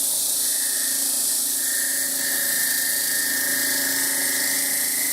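Wood lathe running with a steady motor whine while sandpaper is held against the spinning wooden cup, giving a steady hiss.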